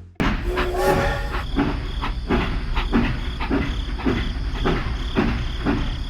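A small machine running steadily, with a regular clack about three times a second over a continuous rumble.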